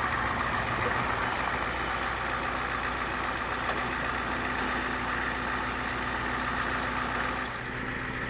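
A motor vehicle's engine idling steadily, easing slightly near the end.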